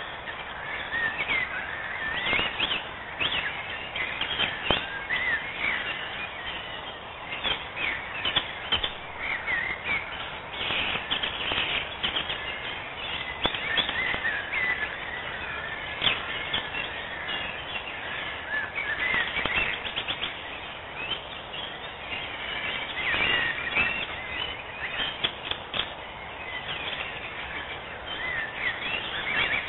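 Several birds chirping and singing over one another in a busy, continuous mix of short calls and trills, over a steady background hiss.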